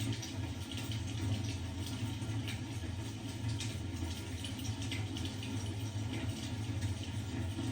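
Fireplace fire crackling: irregular small pops and snaps over a steady low rumble.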